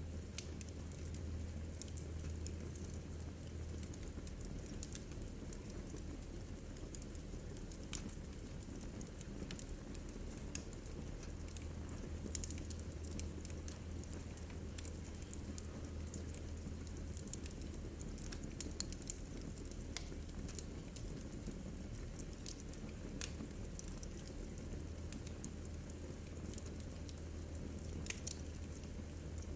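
Wood fire burning in a fireplace, with scattered sharp crackles and pops over a steady low rumble of the flames.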